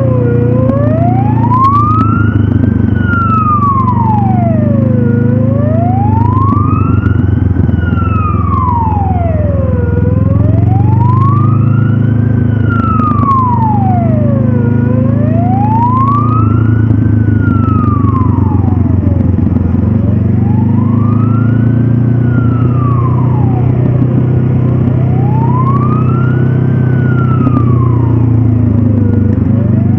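A siren wailing, its pitch sliding slowly up and down about once every five seconds, over the steady running of the Honda CB500F's parallel-twin engine.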